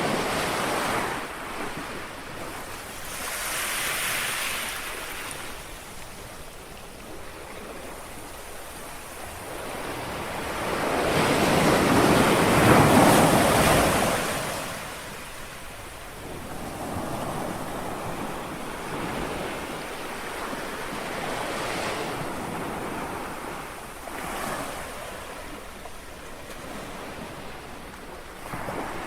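Small sea waves washing in on a shore, a rushing wash that swells and ebbs several times, the biggest about halfway through, with a light breeze on the microphone.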